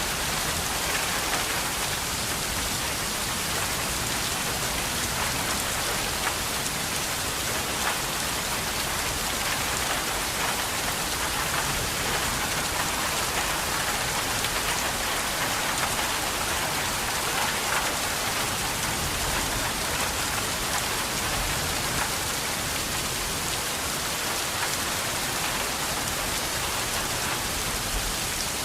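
Steady rain falling, a continuous even hiss of many fine drops.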